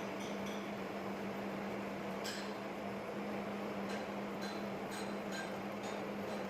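Metal lathe running with a steady hum, and scattered light metallic clinks, more of them in the second half.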